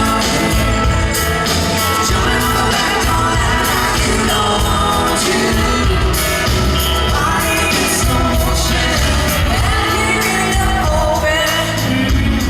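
A live country band plays a song with lead singing over drums and amplified instruments, loud and steady throughout.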